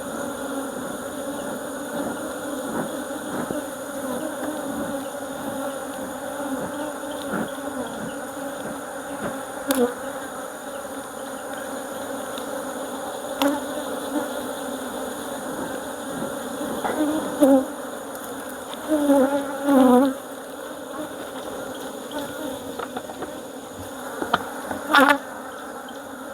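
Honeybees buzzing steadily around an opened hive, with individual bees flying close and droning louder for a moment several times in the second half.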